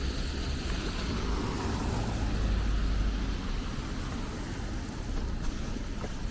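Road traffic noise: a steady low rumble of cars running past, swelling around two to three seconds in.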